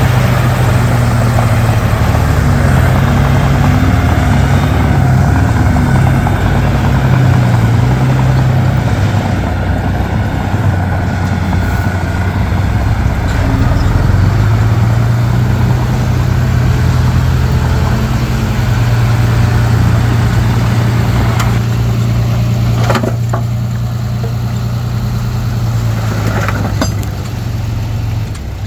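Diesel engine of a Komatsu D31P bulldozer running under load, its pitch shifting up and down as it works, with a couple of sharp knocks in the last few seconds.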